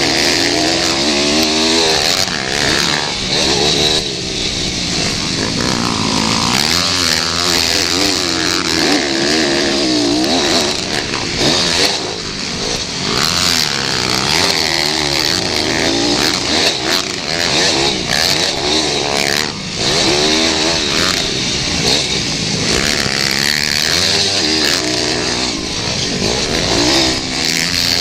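Several pit bike engines racing, their pitch climbing and dropping over and over as riders accelerate, shift and back off, the engines overlapping one another.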